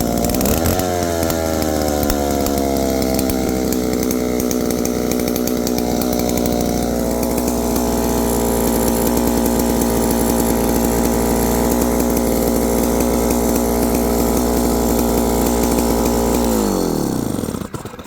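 Stihl 070 two-stroke chainsaw, fitted with an oversized cylinder of roughly 125 to 130 cc, idling steadily on a freshly adjusted carburettor, its pitch easing down a little in the first second. Near the end it is switched off and winds down to a stop.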